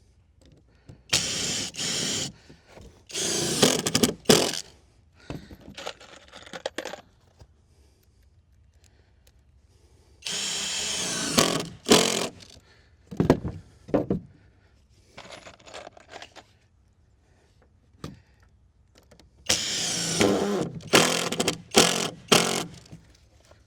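Power drill driving screws into deck boards in several short runs of a second or two each, with sharp knocks and clicks as the screws seat and the boards are handled between runs.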